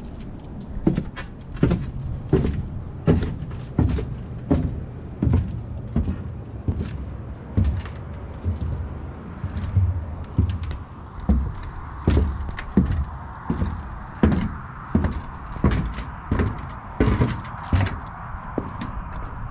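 Regular heavy thumps, about one and a half a second, at a walking pace over a low rumble. A steady drone comes up about halfway through and fades near the end.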